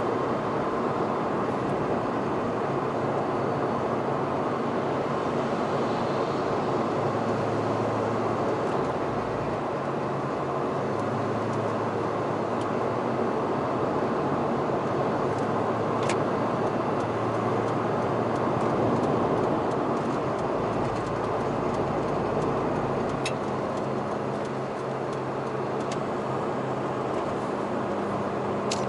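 Mazda RX-8's twin-rotor rotary engine running, a steady hum under an even rushing noise, with two faint ticks partway through.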